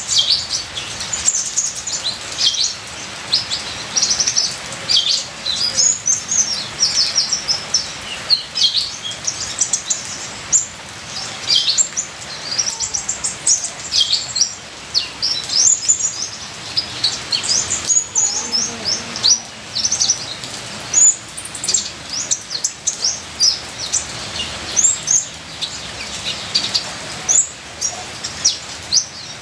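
Sunbird ('kolibri ninja') song: a dense, continuous run of rapid high chirps and twittering phrases, over a steady hiss of trickling rain water.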